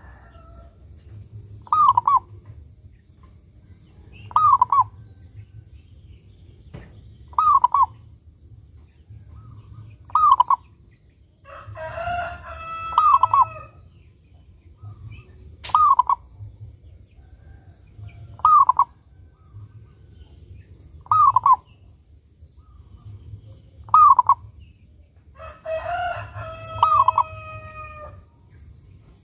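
Zebra dove (perkutut) cooing: a short clipped phrase repeated every two to three seconds. Twice, near the middle and near the end, a longer drawn-out call with a rich, many-layered tone sounds over it.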